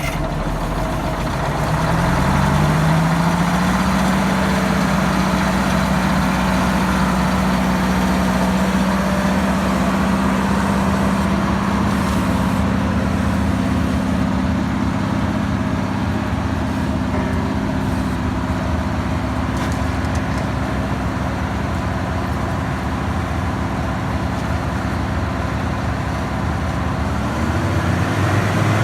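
Diesel engine of a 1978 Schramm T64HB drill rig revving up over the first couple of seconds, then running steadily at high speed, and dropping back in speed near the end.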